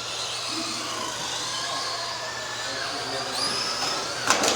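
Several RC Euro race trucks' electric motors whining, their pitches rising and falling as they speed up and slow down around the track. A sharp knock sounds near the end.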